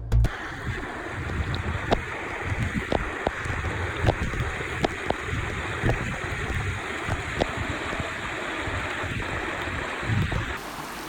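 Mountain stream running steadily over rocks, with scattered small clicks and splashes through the rush of water.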